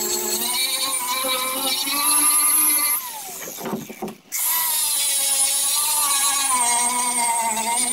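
Power sander running on the boat's hull with a steady motor whine. About three seconds in, it winds down in pitch and nearly stops, then starts again a second later and runs on steadily.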